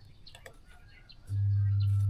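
Light clicks and taps, then a steady low electric hum starts abruptly about a second and a half in, as a mains-powered workshop machine is switched on.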